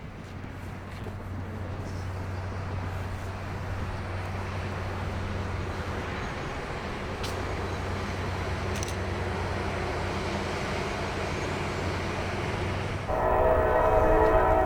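A train approaching, its steady low rumble growing louder; its horn starts to sound near the end.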